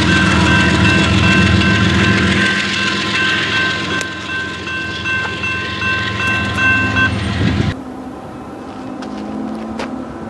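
Train rolling past with a loud rumble and several steady high-pitched tones above it; all of it cuts off suddenly a little after halfway, leaving a quieter, lower steady hum.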